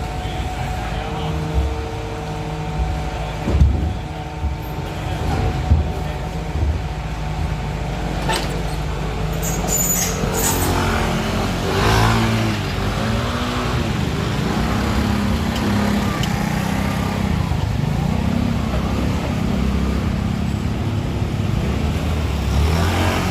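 Isuzu FVR garbage truck's diesel engine running at a collection stop, its pitch shifting in the second half, with a few sharp knocks early on.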